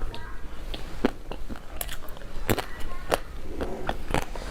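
Close-miked eating: a series of crisp crunches as a person bites and chews crunchy food, roughly one crunch every half second to second.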